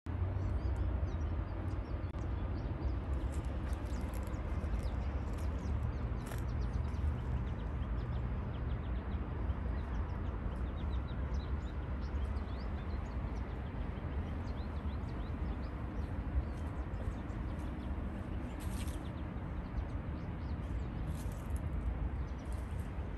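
Small songbirds chirping and calling in many short, high notes, scattered through, over a steady low outdoor rumble that is the loudest sound throughout.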